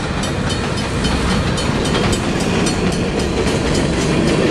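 Long freight train rolling past, its wagons' wheels clattering over the rails in a steady, dense run of clicks.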